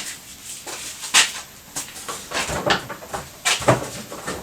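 A string of irregular knocks, clicks and rattles from parts and tools being handled on a motorcycle.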